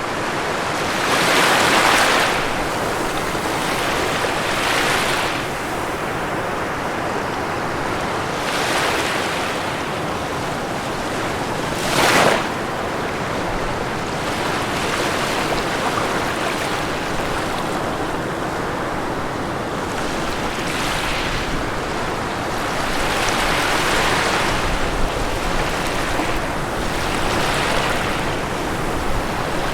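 Ocean waves breaking on a shore: a continuous wash of surf rising into louder breakers every few seconds, with one short, sharper crash about twelve seconds in.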